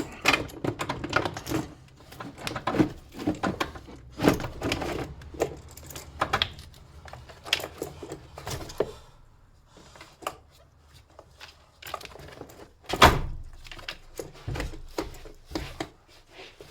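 A car battery being set down and worked into its tray under the bonnet: irregular knocks, clunks and metallic clinks, with one heavy thud about 13 seconds in.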